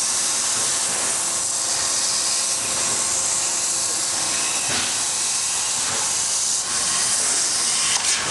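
Thermal Dynamics plasma torch on a CNC plasma table cutting sheet metal: a loud, steady hiss of the air-plasma arc.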